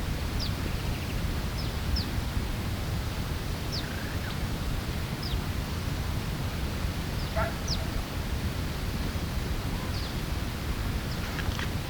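Short, high, downward-slurred bird call notes, one every second or two, from a bird whose species the recordist cannot make out, over a steady low rumble.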